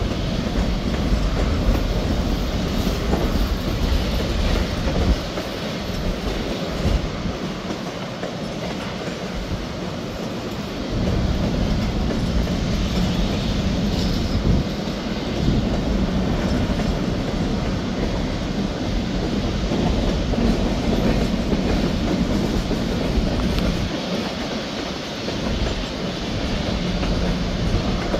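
Freight cars of a CSX manifest train, tank cars and covered hoppers, rolling past: a steady noise of steel wheels on rail, with a few brief louder knocks.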